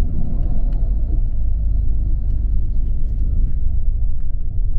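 Steady low rumble of a moving coach bus heard from inside the cabin: engine and tyre noise on the road, with a few faint ticks.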